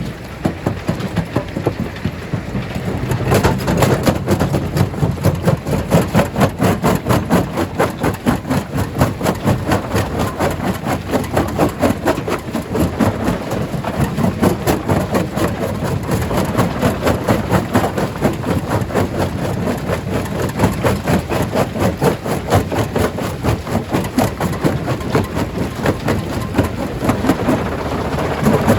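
A stone crusher running under load, with a fast, even pounding of about four to five strokes a second over a heavy, low machine rumble.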